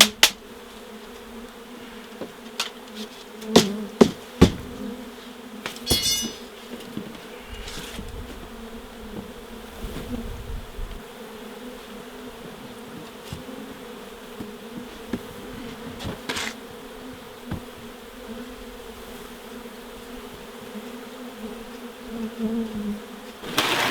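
A wild honeybee colony buzzing in a steady hum as its nest is being cut apart, with scattered sharp knocks and clicks from the comb and frames being handled, a quick rattle about six seconds in.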